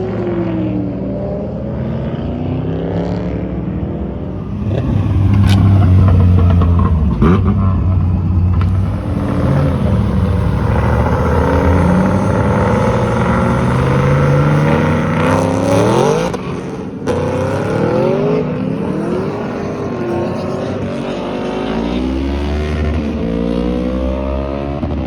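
Several cars accelerating hard one after another as they pull away, engines revving up and shifting, with the pitch rising and falling again and again. The loudest pass comes about five seconds in, with a few sharp cracks among the engine sound.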